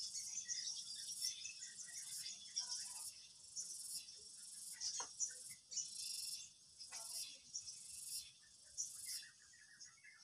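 Insects trilling in a high, even band that switches on and off every second or so, with many short scattered chirps over it.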